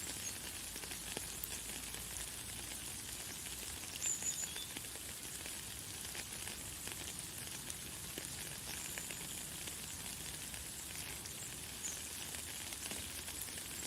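Light, fine rain pattering steadily with a dense fine hiss. A few brief high bird chirps come through, the loudest about four seconds in.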